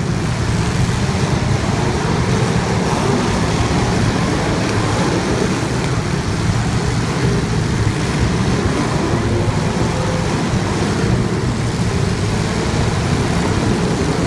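Steady vehicle noise, a continuous low drone with a hiss over it, with no distinct revving or passes.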